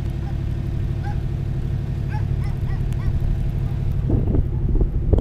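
A motor vehicle's engine running at a steady idle, with faint short high chirps over it in the first few seconds and a louder burst about four seconds in.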